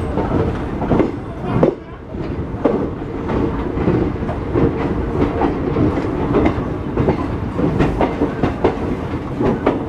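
Passenger train heard from aboard as it rolls into a station: steady running rumble with irregular clacking of the wheels over rail joints, dipping briefly about two seconds in.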